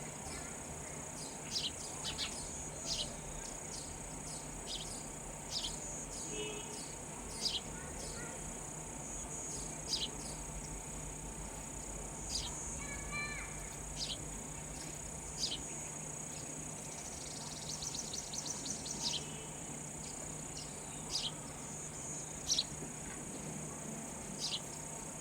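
Sparrows chirping: short, sharp, high chirps every second or two, with a quick run of rapid chirps about 17 seconds in. Behind them runs a steady high-pitched drone of insects.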